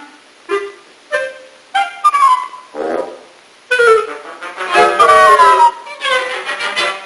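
Cartoon orchestral score led by woodwinds: short stabbing notes about every half second, a falling run near the middle, then a louder, fuller passage with descending lines.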